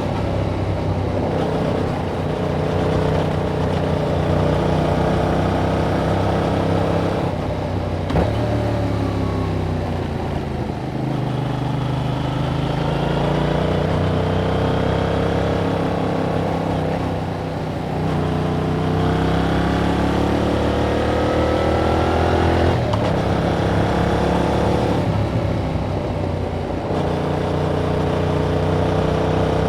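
A 2021 Yamaha MT-07's 689 cc parallel-twin engine running through its stock exhaust while riding. The revs keep rising and falling, with brief breaks in the note several times and a slow drop in pitch around a third of the way in.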